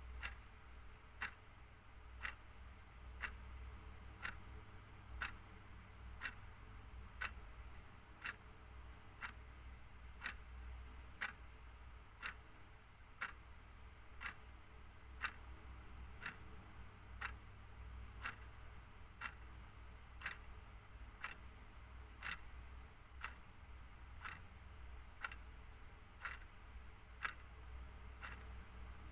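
Clock ticking steadily at about two ticks a second, alternating a louder tick with a softer tock.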